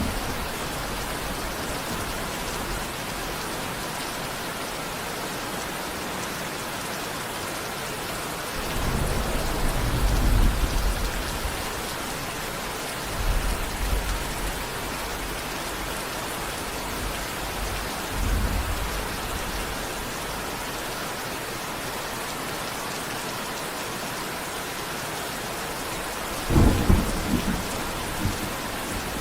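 Steady rain falling, with low rumbles of thunder four times: a longer one about a third of the way in, two shorter ones after it, and the loudest, sharpest one near the end.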